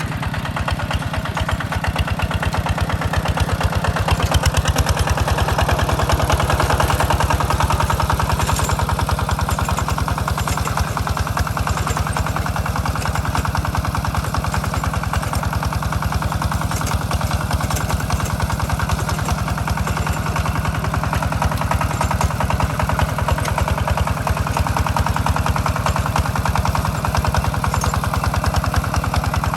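Single-cylinder diesel engine of a two-wheel hand tractor running steadily with an even, fast firing beat, a little louder about four seconds in.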